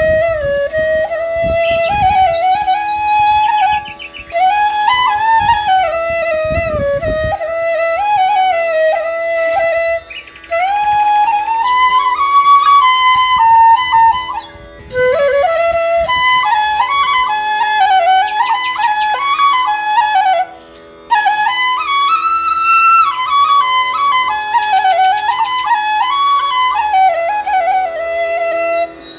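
Music: a solo flute playing a slow, wandering melody in phrases with short breaks between them, over a steady drone.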